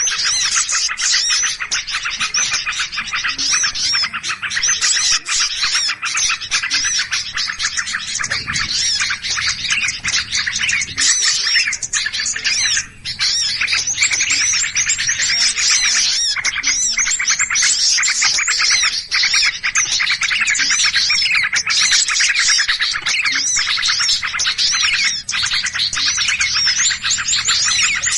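A dense, unbroken chorus of many small birds chirping and chattering over one another, a mix of agitated, excited calls as used in bird-lure (pikat) recordings.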